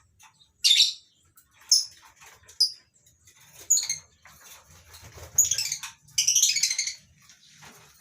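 Lovebirds calling: a series of short, shrill chirps and screeches a second or so apart, building to longer overlapping bursts from several birds about five to seven seconds in.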